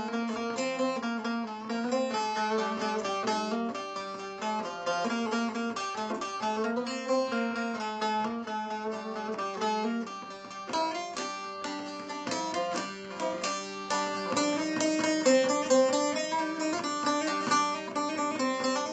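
Bağlama (long-necked Turkish saz) playing a fast plucked instrumental melody over a steady held low drone note.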